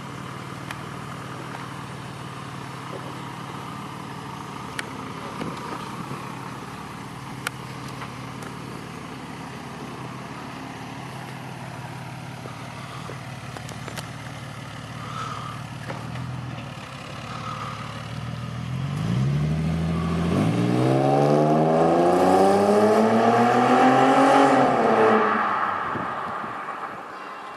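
Ford Mustang V6 running through a custom stainless-steel dual exhaust: a steady idle for most of the time, then the engine note climbs steadily in pitch and loudness for about six seconds before dying away.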